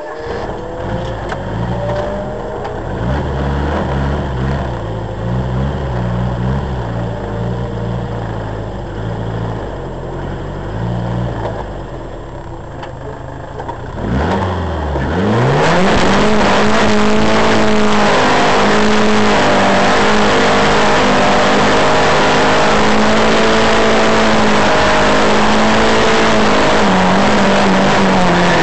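Nissan 1400 drag car's engine blipping unevenly at the drag strip start line, then revved up just before halfway and held at high, steady revs for about thirteen seconds before dropping right at the end.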